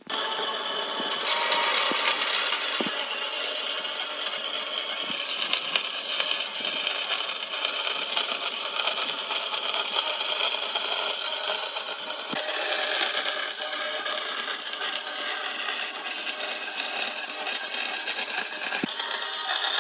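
Power tool working wood: a loud, steady, hissing run that shifts abruptly a few times, with a few light knocks.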